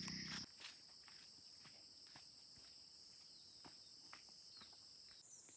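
Faint chorus of insects trilling high and steadily, with a fine pulsing trill that changes pitch about half a second in and again near the end. Scattered faint ticks lie under it.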